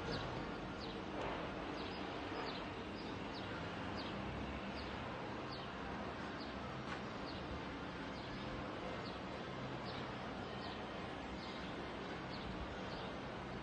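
A bird chirping over and over, short falling chirps about once or twice a second, over a steady background noise.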